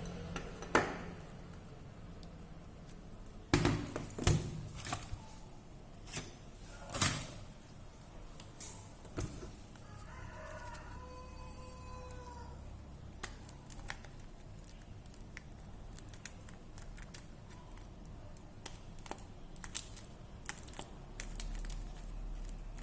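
Sharp clicks and taps of small tools and phone parts being handled during the teardown of a broken iPhone 5C. A rooster crows in the background about ten seconds in.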